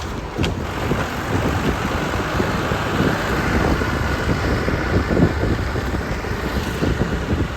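Tractor engine running steadily under a rough, low rumble, with wind noise on the microphone.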